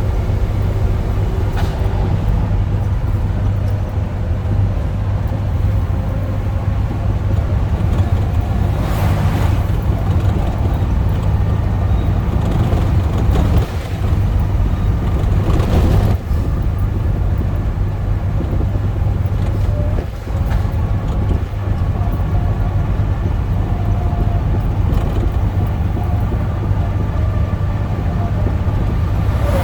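Scania truck's diesel engine droning steadily at highway cruise in direct top gear, with road noise and a few brief swells of broader noise partway through.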